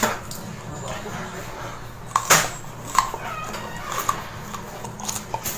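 Biting and chewing a raw bitter gourd: a few sharp crunches, the loudest a little over two seconds in, with wet mouth sounds between them, over a low steady hum.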